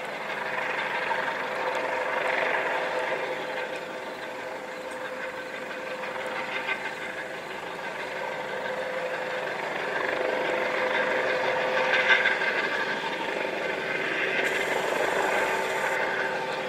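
Helicopter running: a steady engine drone with a constant whine, swelling and easing in loudness.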